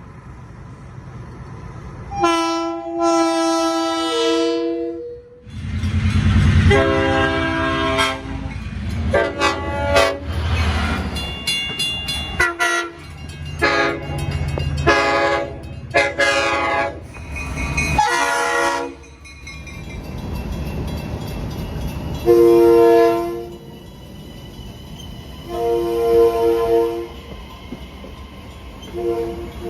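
Long Island Rail Road train horns sounding over and over: a long chord blast about two seconds in, then a long run of blasts of shifting pitch over the low rumble of a moving train, then three shorter blasts near the end.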